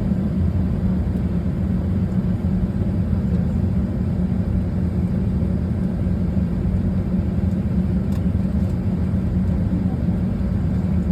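Airbus A320 cabin noise: a steady low drone with a constant hum, without change in level. One faint click about eight seconds in.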